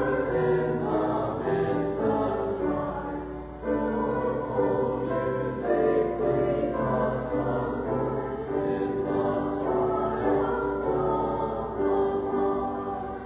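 A group of voices singing a hymn together in held notes, with a short breath about three and a half seconds in, the singing tailing off near the end.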